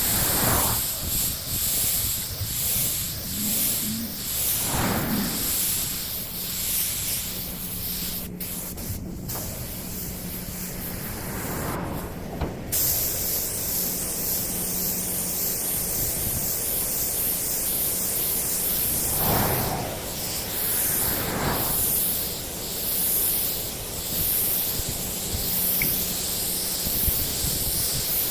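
Steady hiss of compressed air spraying from a nozzle, cutting out briefly a few times about a third of the way in.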